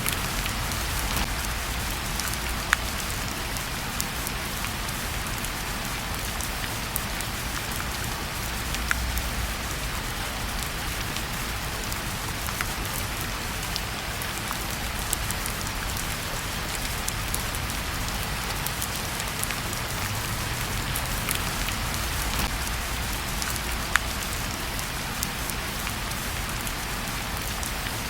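Steady rain falling, with a low rumble underneath and a few isolated sharp ticks.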